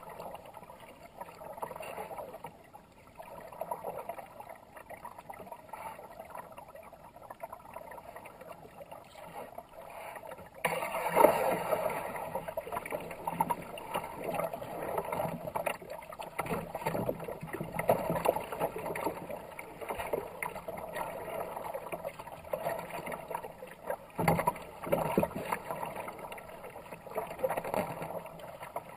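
Kayak paddle strokes dipping and splashing in fast river water, with water rushing along the hull in a steady wash. It gets clearly louder about eleven seconds in.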